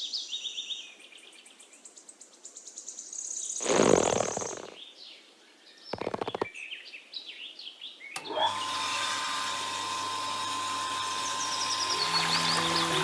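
Birds chirping, then a whooshing swell about four seconds in and a quick run of clicks. From about eight seconds a small electric motor starts and runs steadily with a high whir and low hum.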